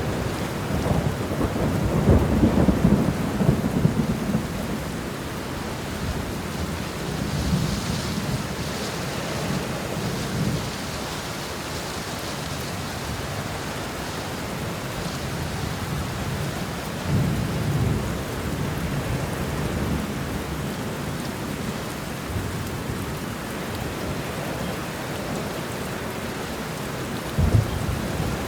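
Steady rain with thunder rumbling several times, the longest and loudest roll about two to four seconds in. A sharper thunderclap comes near the end.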